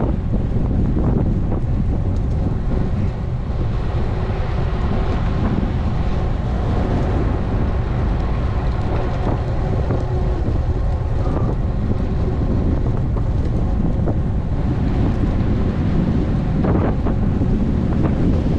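Wind buffeting an action camera's microphone while riding a road bike at speed, a steady low rumble that does not let up.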